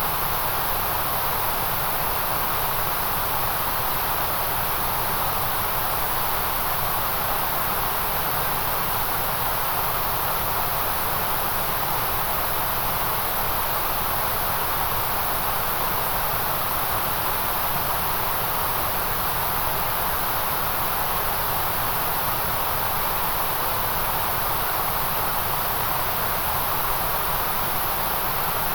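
Continuous white noise: a steady, unchanging hiss, with a full rush in the middle range and a bright high hiss on top.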